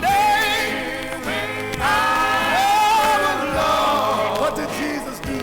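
Male gospel quartet singing long held, wavering notes in harmony with no clear words, on an old mono record.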